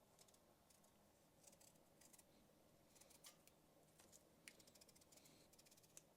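Kitchen knife peeling a potato by hand: faint, irregular short scrapes and clicks of the blade through the skin.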